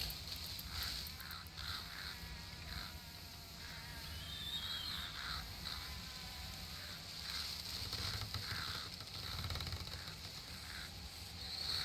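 Outdoor nature ambience: birds calling in short repeated chirps, with a warbling call about four seconds in, over a faint steady low rumble.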